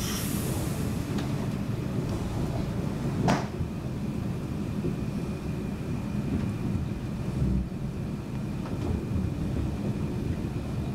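Steady low rumble of a moving SJ Intercity train, heard from inside the passenger carriage, with a single sharp knock about three seconds in and a faint steady high whine from about two seconds in.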